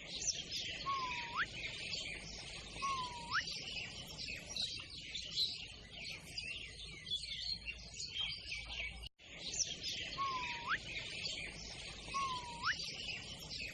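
Small birds chirping and twittering in a dense, continuous chatter. Over it comes a clear whistled call that dips slightly and then sweeps sharply upward, four times at about two-second spacing. The sound cuts out briefly about nine seconds in.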